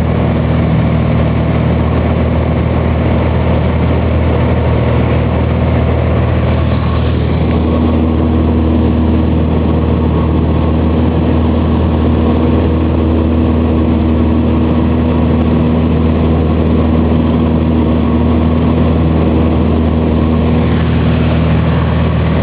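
Cessna 180's six-cylinder piston engine and propeller running with a steady drone; the pitch of the drone shifts about seven seconds in, as with a change in power setting.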